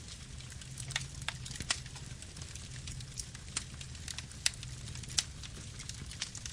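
Wood fire burning, with irregular sharp crackles and pops over a low, steady rumble of flames.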